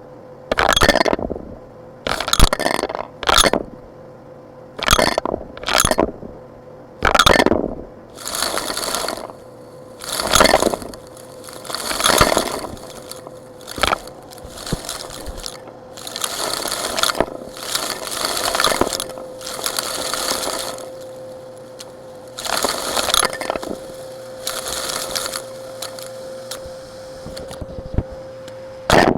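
Rocks being scraped and sifted with a tool: about fifteen separate strokes of gritty scraping and clattering, some short, some drawn out, over a steady faint hum.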